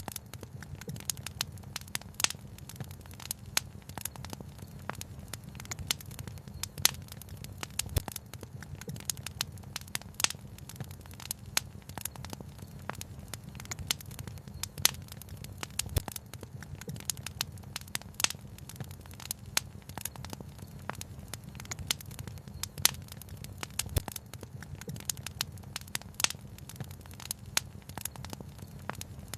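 Wood fire crackling, with frequent irregular sharp pops and snaps over a steady low rush.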